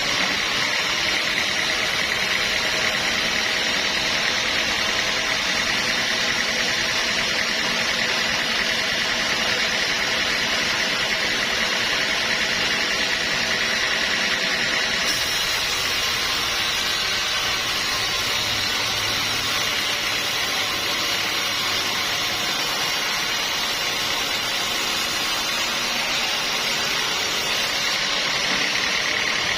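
Sawmill machinery running steadily: a constant mechanical noise with a high whine held throughout.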